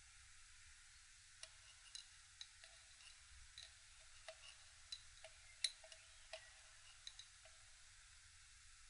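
Faint, irregular light metallic clicks and taps, a dozen or so with the loudest a little past halfway, as a pushrod is worked down into a Triumph T120 650 twin engine and seated on its cam follower.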